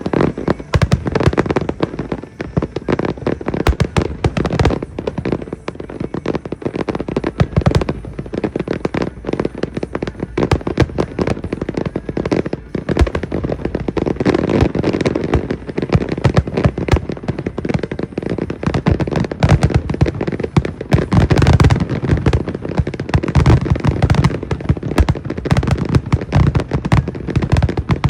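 Aerial fireworks display: a dense, continuous barrage of shell bursts and crackle, the bangs coming too fast to count.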